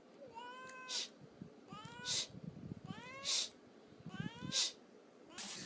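A cat calling four times, about a second apart. Each call rises in pitch and is followed by a short hiss-like burst.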